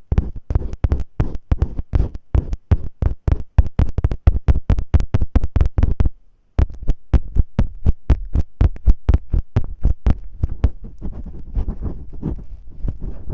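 Masking tape pressed onto and peeled off a close microphone in quick repeated strokes, about five a second, each with a heavy low thump; a short pause about six seconds in, then the strokes resume.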